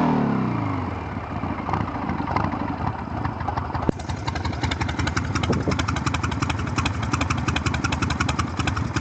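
1979 Harley-Davidson 80-inch Shovelhead V-twin with loud pipes: the revs drop back over the first second to an uneven, loping idle that settles into a steady beat. There is a sharp click about four seconds in.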